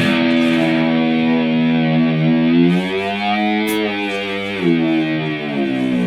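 Distorted electric guitar playing long held chords that change every second or two.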